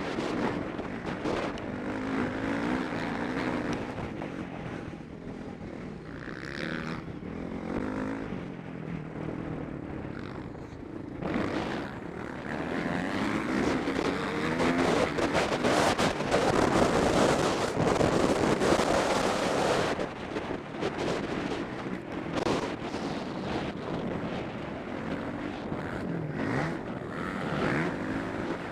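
Motocross bike engine revving hard and easing off over and over as it is ridden round the track, heard from a helmet camera with wind rushing over the microphone. It is loudest for a stretch of several seconds about halfway through.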